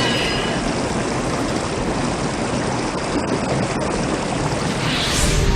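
Sound effect of a water spell: a steady rushing torrent of gushing water, with a whooshing swell near the end.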